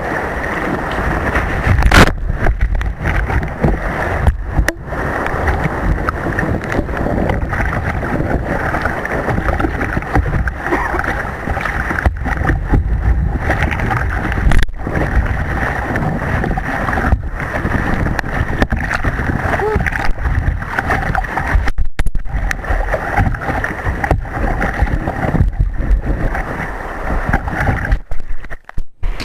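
Water rushing and splashing around a surfing kayak, with wind on the microphone: a loud, muffled, steady wash broken by a few brief cutouts.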